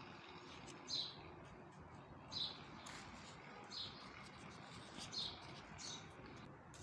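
A small bird chirping faintly, single short high chirps about every second and a half, with a few faint light clicks between them.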